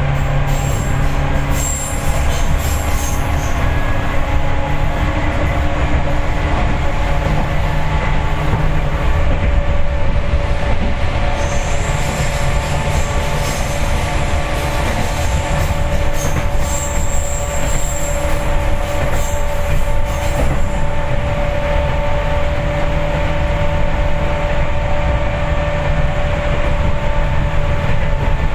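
Seibu 4000 series electric train running, heard from inside the passenger car: a steady low rumble of wheels on rail with a constant hum from the running gear. Twice, about halfway through, a thin high wheel squeal rises over it for a second or two.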